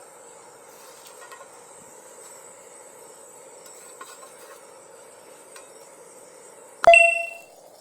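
Quiet cooking sounds with a few small utensil clicks over a steady high insect trill, then, near the end, a single sharp metallic clank of a utensil on cookware that rings briefly.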